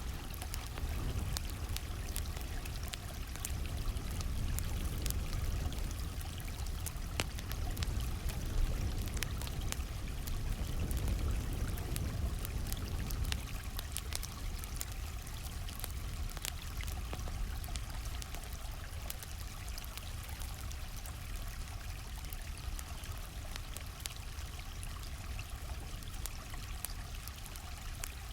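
A flowing stream makes a steady rush of water, with frequent short, sharp crackles and pops from a wood campfire over it.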